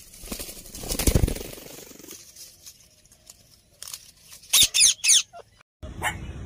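Rainbow lorikeet: a burst of wing flapping about a second in, then three short, shrill screeching calls.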